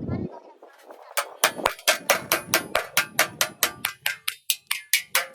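Hammer blows on metal during bus body repair: fast, even strikes at about four to five a second that resume about a second in after a short pause.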